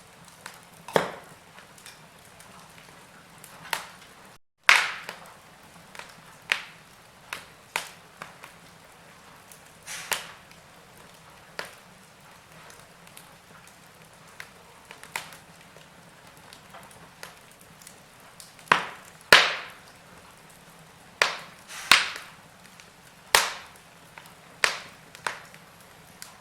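Wood fire crackling in a fireplace: irregular sharp snaps and pops over a faint steady hiss, with the sound cutting out for a split second just before five seconds in.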